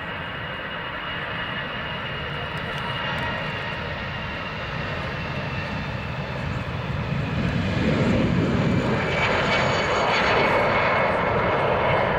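Airbus A319's two CFM56 jet engines at takeoff power during the takeoff run, a steady rushing roar with a faint whine that grows louder and swells sharply about eight seconds in as the aircraft comes closer.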